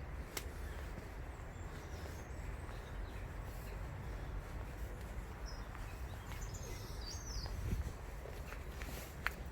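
Outdoor ambience: a steady low rumble with a few short bird chirps in the middle and a couple of sharp clicks.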